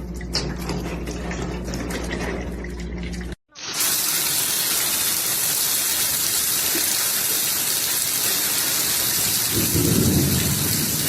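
Steady hiss of heavy rain starting about four seconds in, with a low rumble near the end. Before it there is a low steady hum with faint clicks, from a different clip.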